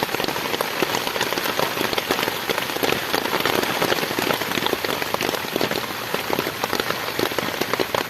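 Heavy rain falling steadily: a dense, continuous patter of raindrops.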